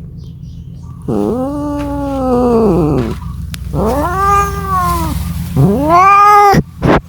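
Domestic cat yowling, three long drawn-out calls that each rise and fall in pitch, then a short cry near the end, over a steady low hum: typical of a cat calling for a mate.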